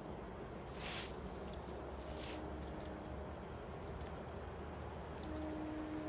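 A small bird gives short, high squeaky call notes, one or two at a time every second or so, over a faint low outdoor rumble. Two brief hissing rushes, the loudest sounds, come about one second and about two seconds in.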